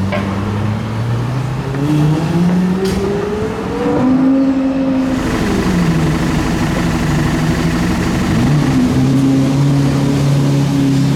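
Car engine accelerating hard, its pitch climbing for about four seconds, dropping back, then rising again and holding steady near the end.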